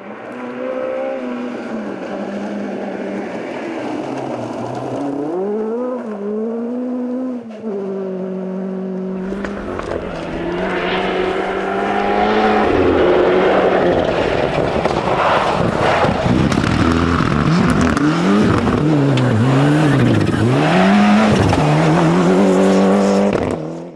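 Rally car engine at full stage pace, revving up through the gears and dropping on each shift and lift. It gets much louder and closer about nine seconds in, with quick rises and falls in pitch near the end before it cuts off suddenly.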